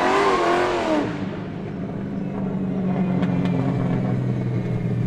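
Chrysler 400 cubic-inch big-block V8 revving for about a second, then dropping back to a steady idle.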